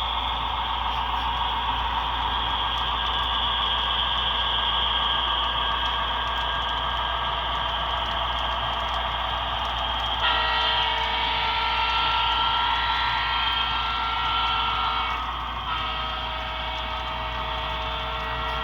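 Steady running noise of an HO-scale model diesel train, then about ten seconds in the locomotive's sound decoder blows its multi-tone horn: one long blast of about five seconds, a short break, and a second long blast.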